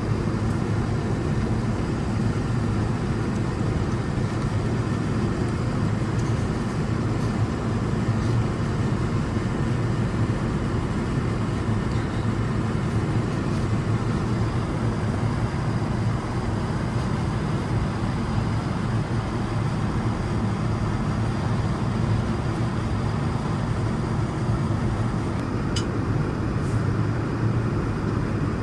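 Steady low rumble of cabin noise inside a Boeing 787-9 airliner, its engines and airflow making an even hum, with a couple of faint clicks near the end.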